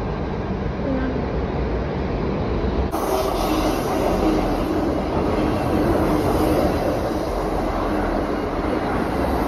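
South Western Railway passenger train running past a platform, a steady rumble of wheels and running gear on the track, turning sharper and fuller about three seconds in.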